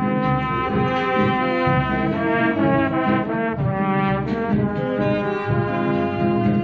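Big band playing a slow number, with a trombone carrying the melody in long held notes over sustained brass chords.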